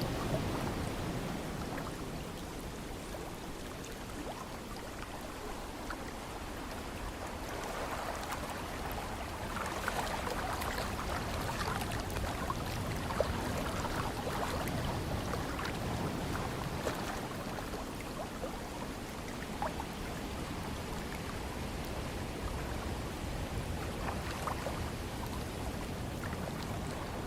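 Ocean surf washing in: a steady rush of water with a fine fizzing crackle, swelling louder about a third of the way through and easing off again.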